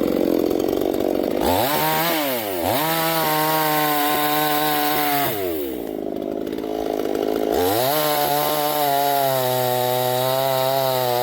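52cc two-stroke gasoline chainsaw running: it idles at first, then is revved up hard and held at full speed, drops back to idle for a couple of seconds near the middle, and is revved up and held high again.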